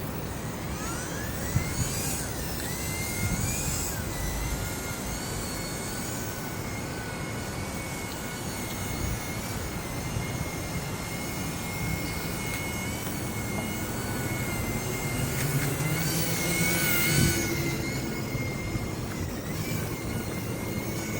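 Small electric RC aircraft's motor and propeller whining in flight, rising in pitch over the first few seconds and then wavering up and down with the throttle. Wind rumbles on the microphone underneath.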